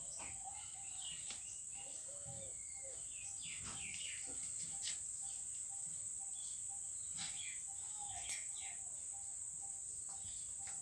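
Outdoor ambience: a steady high insect drone with a run of short repeated notes and scattered bird chirps.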